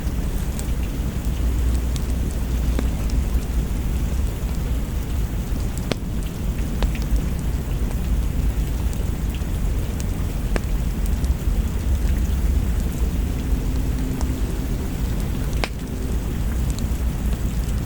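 Steady rain falling, with a deep continuous low rumble underneath and a few sharp, isolated crackling pops scattered through.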